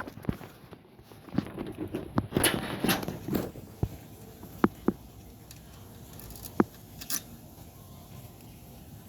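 Scattered sharp clicks and light knocks, with a few short rustling noises about two to three seconds in.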